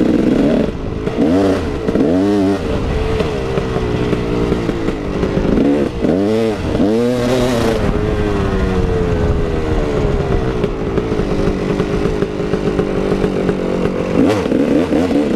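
KTM 380 EXC two-stroke dirt bike engine being ridden hard, the throttle opened and shut in several quick rises and falls of pitch in the first half, then held steadier with slower changes in pitch.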